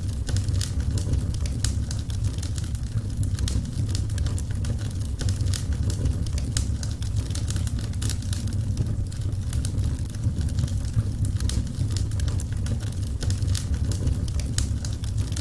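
Wood fire crackling: many sharp, irregular pops and snaps over a steady low rumble of the burning fire.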